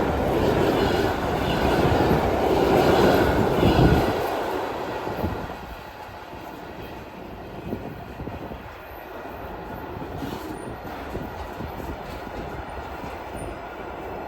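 Freight container train wagons rolling past on the track, loud until about four seconds in, when the sound drops sharply to a fainter rumble from the receding train.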